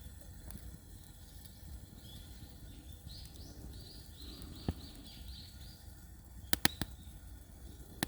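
A wild songbird calls a rapid run of about ten repeated high notes, while a wood fire in an irori hearth gives a few sharp crackling pops. The loudest of these is a quick cluster of three near the end.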